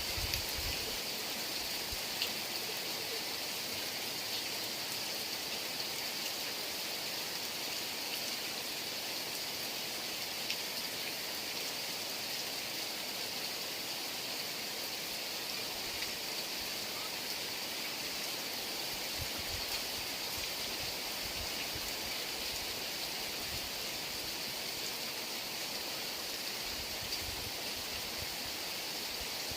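Heavy rain falling in a steady, even hiss with scattered drop ticks, and a few brief low rumbles of wind.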